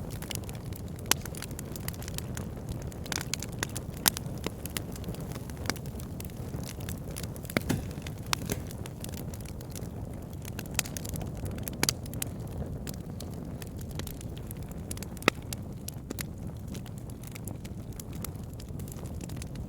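Wood fire burning in a fireplace: a steady low rumble with sharp crackles and pops at irregular intervals.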